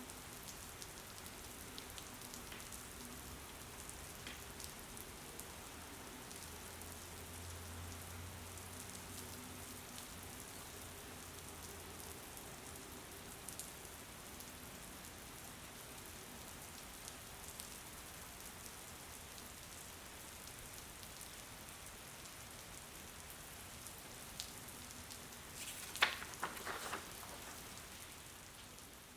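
Steady rain falling, an even hiss throughout. A faint low hum comes in for a few seconds in the first half, and about three seconds before the end a short cluster of sharp taps is the loudest thing heard.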